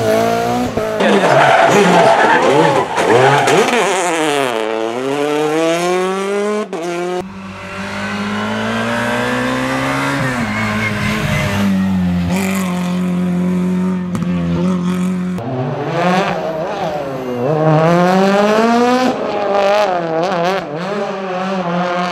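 Rally car engines revving hard, pitch climbing and dropping with each gear change and lift, across several short passes that change abruptly.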